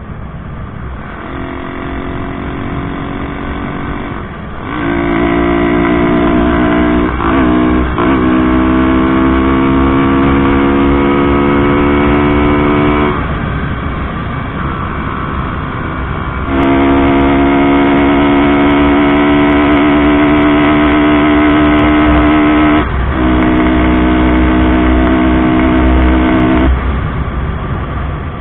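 Bajaj Pulsar NS 160's single-cylinder engine pulling on a test ride, its note climbing slowly as it gathers speed, with short breaks where it is shifted and then picks up again, over a low rumble. The engine holds its revs without cutting out, the sign that its RPM problem is cured.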